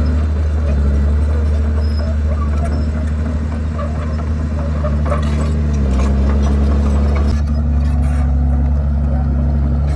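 Komatsu D51PX bulldozer's diesel engine running steadily under working load, a deep drone whose pitch shifts slightly about six seconds in, with scattered faint clanks over it.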